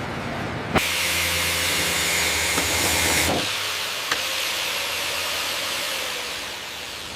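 A sharp click, then a loud, steady hiss like air or gas venting for about two and a half seconds. It cuts off, and a softer hiss fades away.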